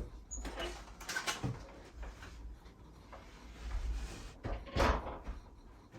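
Doors being handled and opened: scattered knocks and bumps, with one louder knock about five seconds in.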